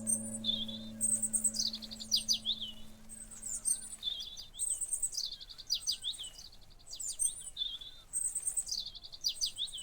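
A songbird singing a high, repeated phrase about every two seconds, each phrase dropping in a quick run of notes. A held low tone fades away in the first few seconds.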